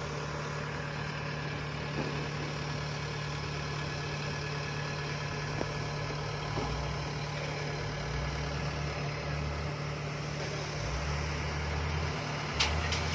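An engine idling steadily with a low, even hum, with two sharp clicks near the end.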